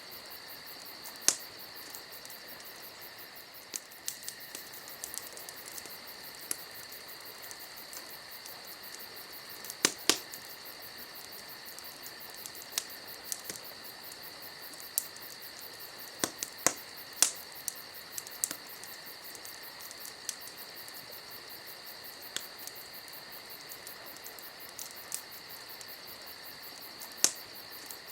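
Campfire crackling, with scattered sharp pops at irregular intervals, over a steady high chirring of crickets.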